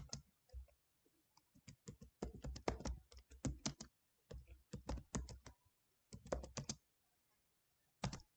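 Computer keyboard typing: quick runs of key clicks in several bursts with short pauses between, a command being entered in a command prompt.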